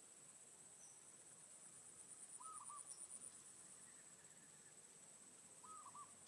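Faint, steady high-pitched insect trilling, with a short, quick three-note bird call twice, about two and a half seconds in and again near the end.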